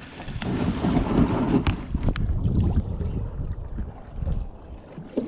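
Wind buffeting the microphone in gusts, heaviest through the middle, with a few light knocks.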